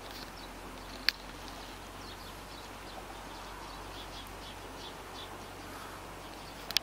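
Scattered high chirps of small birds over a steady outdoor hiss, with two sharp clicks, about a second in and near the end.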